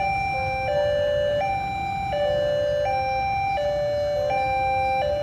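Electronic warning signal of a railway level crossing, alternating between a higher and a lower tone about every three-quarters of a second, the signal that a train is approaching. A low rumble of traffic runs underneath.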